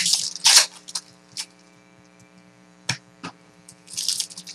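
Foil card-pack wrappers crinkling and tearing, with scattered sharp clicks of cards being handled, over a faint steady hum.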